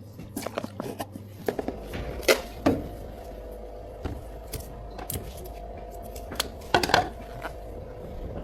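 Cups, lids and utensils clinking and knocking as bubble tea drinks are made, with a steady low machine hum underneath from about a second and a half in.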